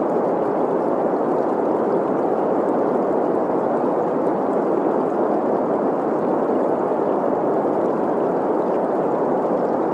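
Steady green noise, a dense hiss centred in the middle of the hearing range, mixed with the sound of a flowing stream. It holds at an even level with no breaks.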